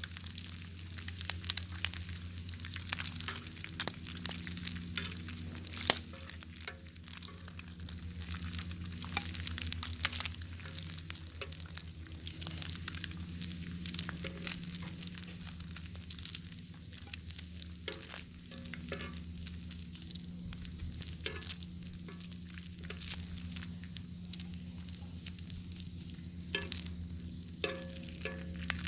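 Bacon frying over an open fire: a dense, continuous sizzle with irregular pops and crackles, over a steady low hum.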